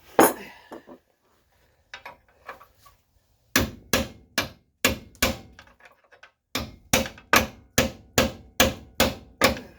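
Big hammer striking a steel drift against a nut on a seized control arm bolt in a Kia Sportage's front suspension: one hard blow, a few light taps, then two runs of steady blows about three a second. The bolt is not moving.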